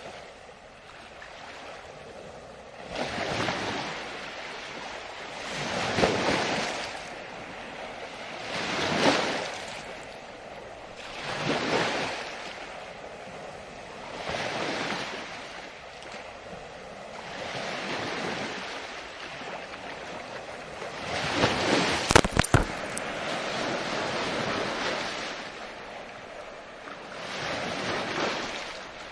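Ocean waves breaking and washing back, swelling and falling about every three seconds. About three-quarters of the way through, a brief cluster of sharp clicks is the loudest sound.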